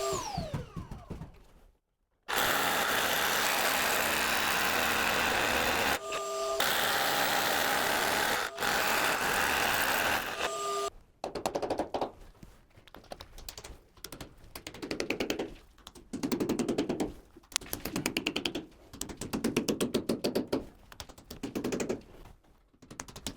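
A power saw cuts wood in two long passes, its motor running free for a moment between them and winding down at the start. After that comes a series of short bursts of rapid hammering clicks from an impact driver driving screws into the wooden framing.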